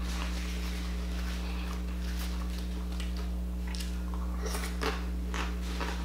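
Faint crunching and chewing of a crisp fried taco shell, a few scattered crackles, over a steady low electrical hum.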